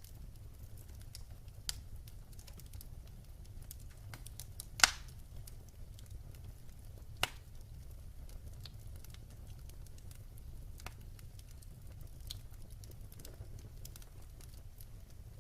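Wood fire in a fireplace crackling over a steady low rumble, with a scatter of fine ticks and a few sharper pops, the loudest about five seconds in and another about two seconds later.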